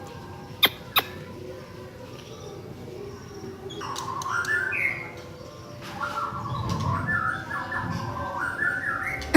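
Cucak ijo (green leafbird) singing: two runs of quick, warbling, chattering phrases, the first about four seconds in and the second from about six to nine seconds. A couple of sharp clicks near the start and a louder click at the very end.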